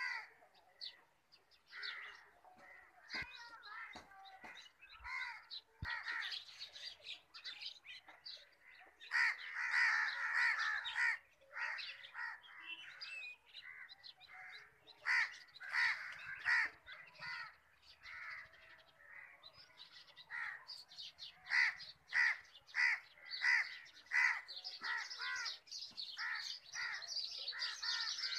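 Birds calling in quick runs of harsh, crow-like caws mixed with chirps, loudest about ten seconds in, with a denser high chatter near the end.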